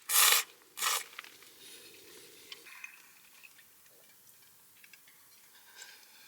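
A person eating ramen: two short, loud slurps of noodles in the first second, followed by faint light clicks and scrapes of utensils against the bowl.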